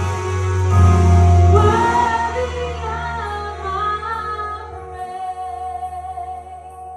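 Worship music: a woman singing over sustained keyboard chords and bass, the music easing off toward the end.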